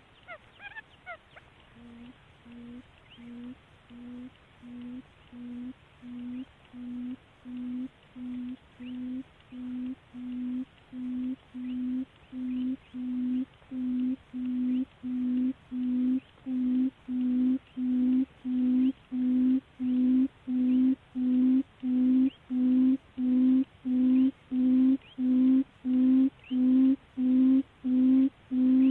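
Barred buttonquail's booming call: a long, even series of short, low hooting notes, starting about two seconds in and growing steadily louder. It is played as a lure call to draw buttonquail in.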